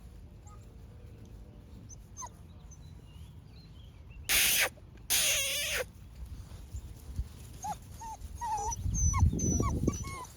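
North American Mastiff puppies whimpering, with short high whines and squeaks that come more often in the last few seconds. Two loud harsh bursts come about four and five seconds in.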